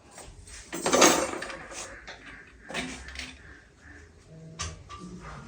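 Dishes, pots and cutlery clattering as they are handled, with one loud clatter about a second in and a few lighter knocks after it.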